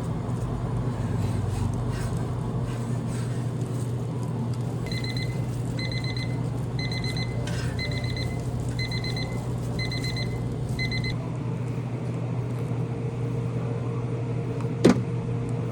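An electronic alarm beeping in short groups of rapid high beeps, about one group a second, for roughly six seconds, over a steady low machine hum. A single sharp click comes near the end.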